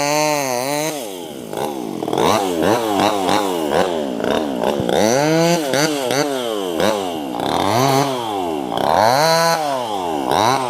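A 258 top-handle chainsaw's small two-stroke engine cutting tree branches. It runs at a steady high pitch, dips about a second in, then revs up and down over and over, with the pitch rising and falling about once a second.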